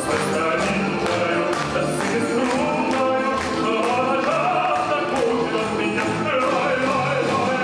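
Live band music with a singing voice over sustained instrumental notes and a steady beat of about two strokes a second.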